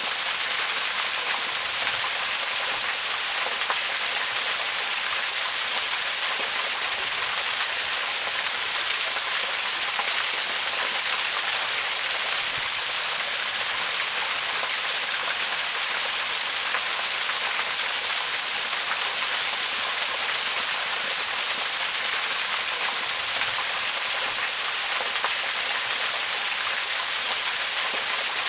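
Waterfall: falling water splashing in a steady, even hiss that stays level throughout, its sound mostly in the highs.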